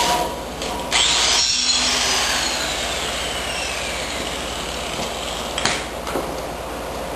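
A power tool running with a whirring noise, starting sharply about a second in and sliding down in pitch over the next few seconds, with a single sharp knock near the end.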